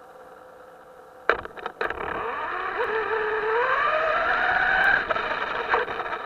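Electric motor of a radio-controlled boat whining under throttle, its pitch rising steadily over about three seconds, then dropping off about five seconds in. A click comes just before it starts.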